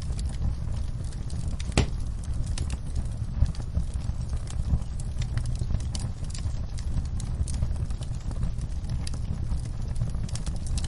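Fire crackling in a fireplace: irregular pops and snaps over a steady low rumble, with one sharper pop about two seconds in.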